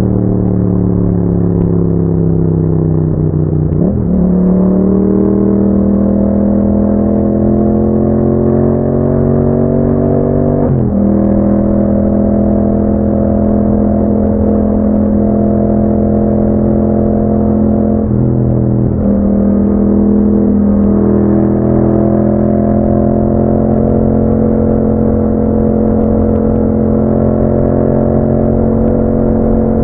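Yamaha MT-07's 689 cc parallel-twin engine, with a 270° crank, running through an Akrapovic exhaust while riding. The engine note sags and then climbs a few seconds in, breaks briefly twice as gears are changed, and otherwise holds a steady cruising pitch.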